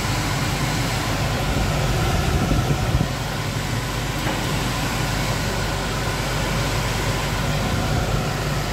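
Homemade diesel-fired garage air heater running: a steady whirring rush of air with a low hum, with a few louder bumps about three seconds in.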